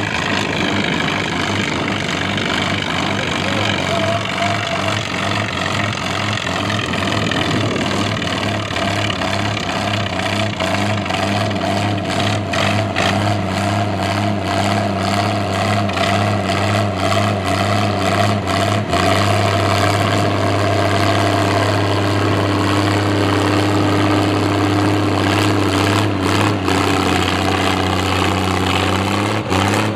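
Classic farm tractor engine running hard and steady at a tractor pull, its note wavering at first, then settling and growing stronger about two-thirds of the way through, with scattered sharp crackles.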